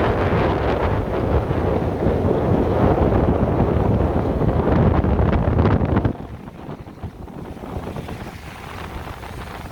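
Strong wind buffeting the microphone in a loud, low rumble, which drops off suddenly about six seconds in to a quieter rush.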